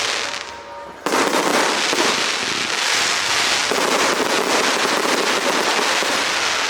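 A 168-shot consumer fireworks cake firing a rapid, dense barrage of shots and bursts. The barrage eases briefly, then comes back suddenly and loudly about a second in and keeps going without a break.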